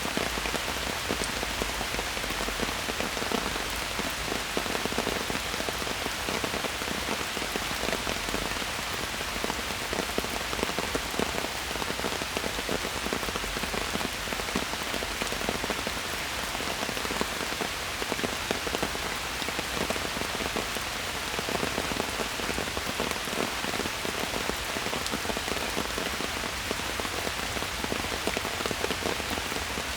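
Steady rain falling in a forest, a constant hiss with many close drops pattering on leaves and surfaces.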